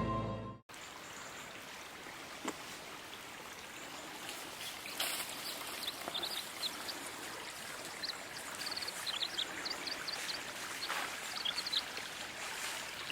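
Creek water running steadily over rocks, with a few short high chirps now and then.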